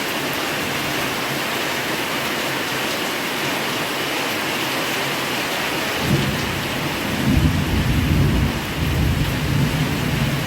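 Heavy rain pouring down steadily, with a low roll of thunder rumbling in about six seconds in and dying away near the end.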